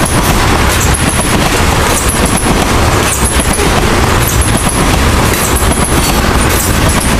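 Loaded railroad tank cars of a freight train rolling past at speed: a loud, steady rumble with rapid clacking of steel wheels over rail joints, and a short high ring recurring about once a second.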